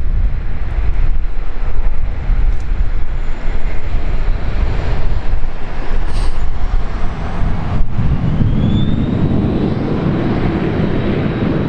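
Jet aircraft engine noise that swells into a broad roar from about eight seconds in, with a faint rising whine, over heavy wind buffeting on the microphone.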